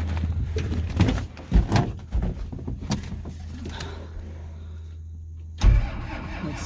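Footsteps and handling knocks, then a vehicle door shutting with a loud thump about five and a half seconds in, over a steady low hum.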